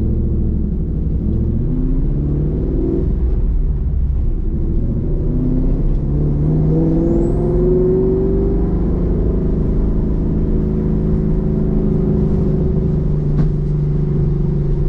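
Roush Mustang's engine heard from inside the cabin, pulling up through the revs, falling back about three seconds in as at a gear change, climbing again, then holding a steady cruise for the rest.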